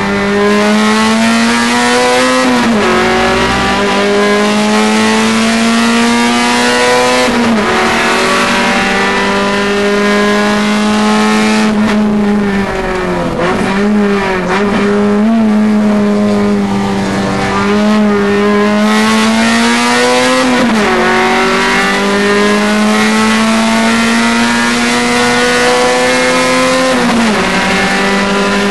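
A Nissan Sentra SE-R's VVL four-cylinder engine heard from inside the cabin while racing. It climbs in pitch through the gears, dropping suddenly at each of four upshifts. About halfway through, the pitch dips and wavers as the car slows and downshifts for a corner.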